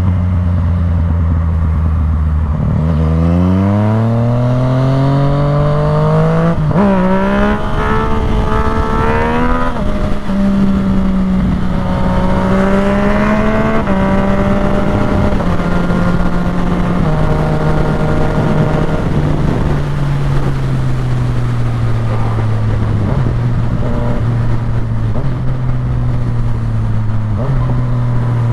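Yamaha MT sport motorcycle engine accelerating hard, its revs climbing with a few quick breaks for gear changes, then cruising steadily and settling to lower revs in steps.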